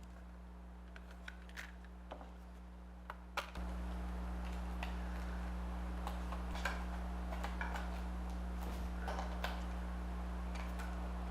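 Low, steady electrical hum that steps up abruptly in level about three and a half seconds in, with scattered faint clicks and ticks.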